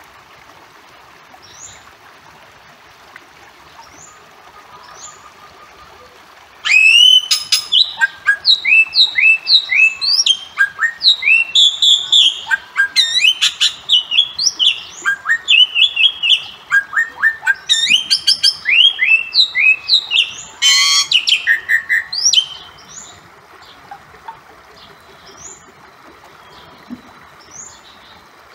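Bali myna calling: a loud run of quick rising and falling whistled notes lasting about fifteen seconds, broken near its end by one harsh, noisy note. Before and after the run, faint short chirps recur every second or so.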